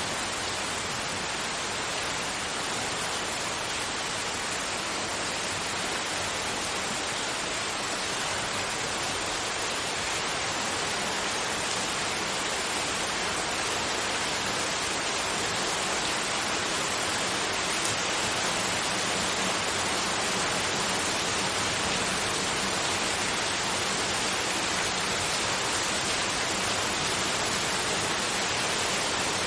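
Steady synthetic white noise, an even hiss with most of its weight in the upper middle range.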